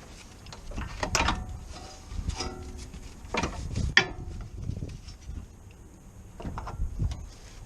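Metal tools and parts knocking and clinking in irregular clusters, some strikes ringing briefly, with the sharpest clank about four seconds in.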